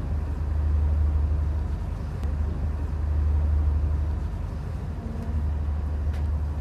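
Steady low rumble of a diesel passenger train moving slowly out of the station, heard from inside the carriage.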